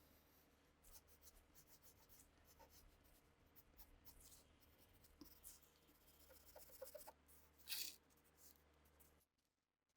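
Faint scraping and rubbing with scattered light clicks over a low steady hum, with one short, louder scrape near the end; the hum cuts out just before the end.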